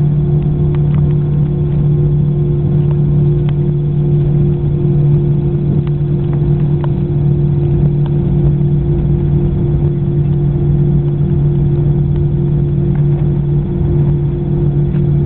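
Steady cabin drone of an Airbus A319 taxiing, its jet engines at idle giving a constant low hum with two steady tones, and a few faint clicks.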